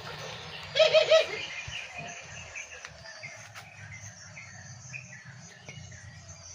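A dove gives a short burst of three or four quick, loud cooing notes about a second in. Faint chirps of small birds follow throughout, over a low steady hum.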